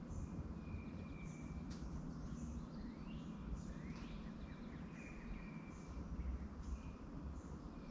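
Birds calling: short high chirps about once a second, a few quick rising sweeps, and some held whistled notes, over a steady low rumble.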